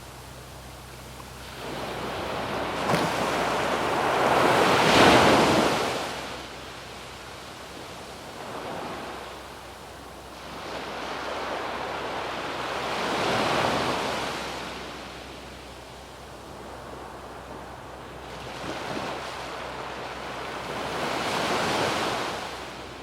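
Small ocean waves breaking and washing up a sandy beach, three swells of surf in turn, the loudest about five seconds in, each rising and then draining away.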